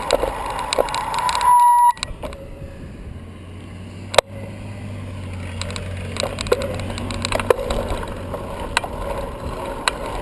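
Riding noise from a bicycle: the bike rattles and clicks over the road. A brief steady tone cuts off suddenly about two seconds in, and there is one sharp click about four seconds in.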